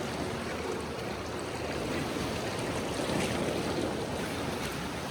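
Ocean swell washing and sloshing around a kayak among sea-cave rocks, a steady rush of water that swells slightly about three seconds in.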